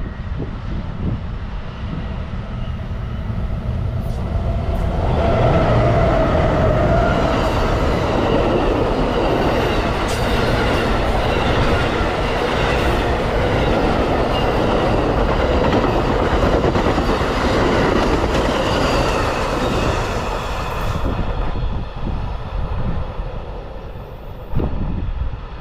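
Amtrak Silver Meteor passenger train passing by, the rumble of its wheels on the rails swelling about five seconds in, staying loud for about fifteen seconds, then easing off near the end.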